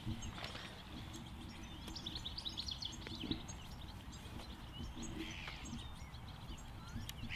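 Small birds chirping against a low outdoor rumble, with a quick run of high chirps about two seconds in and another about five seconds in.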